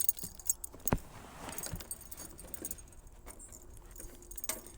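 Keys jangling on a key ring, with scattered small clicks and knocks, as the ignition key is handled before the garden tractor is started.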